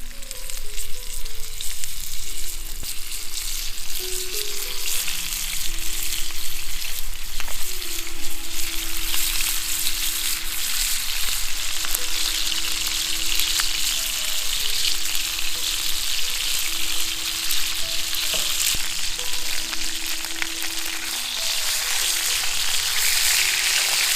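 Food sizzling and crackling over a campfire: a dense, steady sizzle with fine pops that grows louder after about eight seconds. Slow background music plays underneath.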